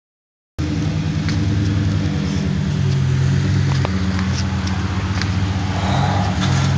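An engine running steadily at a constant speed, with a few light clicks and knocks over it.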